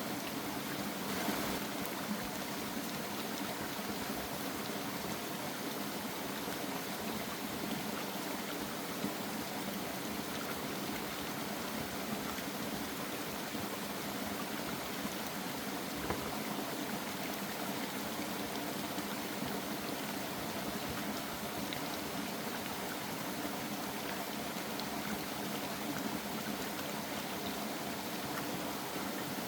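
Steady rushing water, an even wash of noise with a few faint clicks.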